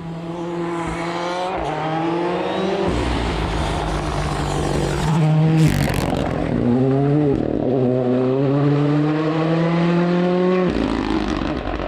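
Rally car engine revving hard through the gears, its pitch climbing and then dropping at each gear change, with a short sharp bang about six seconds in. Near the end the engine note falls away as the driver lifts off.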